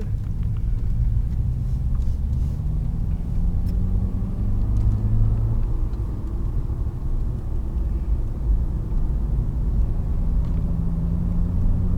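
Car engine and road rumble heard from inside the moving car, with the engine note rising as the car picks up speed, once early on and again near the end.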